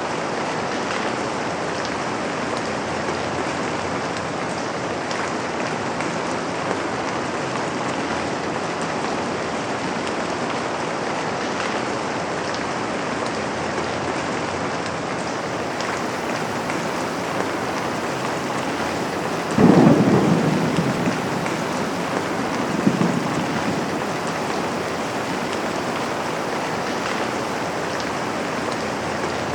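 Steady rain falling on a window, with a roll of thunder about two-thirds of the way in that dies away over a couple of seconds and a smaller rumble a few seconds after it.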